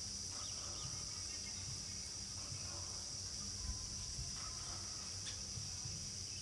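A steady, high-pitched chorus of crickets, with a faint low rumble beneath.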